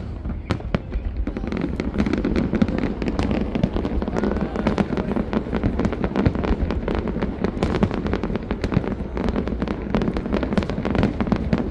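Aerial fireworks display going off: a dense, continuous run of sharp bangs and crackles, many a second, over a low rumble.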